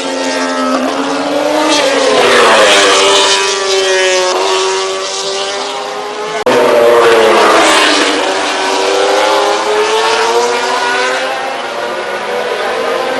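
MotoGP 800cc racing motorcycle engines at high revs, pitch rising and falling through acceleration, gear changes and braking. The sound changes abruptly about six and a half seconds in.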